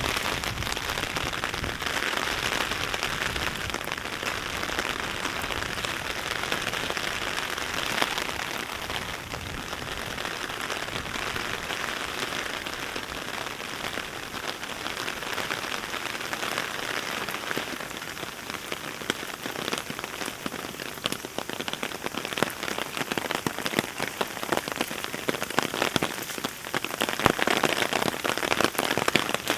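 Heavy rain falling steadily, a dense hiss full of close drop ticks, growing a little louder near the end.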